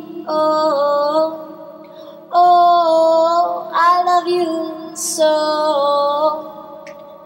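A woman singing four long, held notes over soft backing music; the music fades away near the end.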